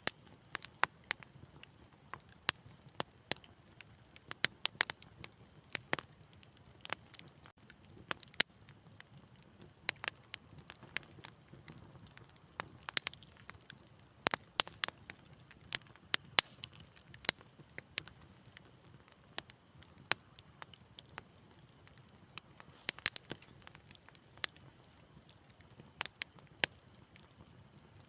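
Wood fire in a fireplace crackling: sharp, irregular pops and snaps, several a second, over a faint low rumble of the flames.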